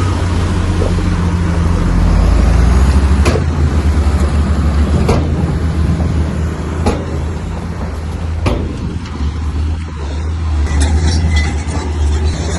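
Komatsu bulldozer's diesel engine running steadily, with four sharp metallic knocks spaced a little under two seconds apart in the middle.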